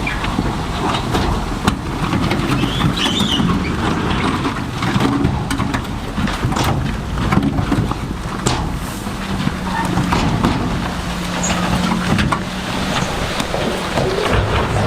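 Heavy diesel earthmoving machinery working stone, running steadily with frequent knocks and clatter of rock throughout. A steady engine note holds one pitch for a few seconds past the middle.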